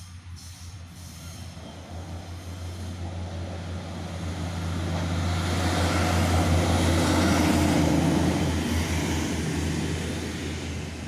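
Pacer diesel railbus passing over a level crossing: a steady low engine drone with the rush of the train, growing louder to a peak about six to eight seconds in and then fading away.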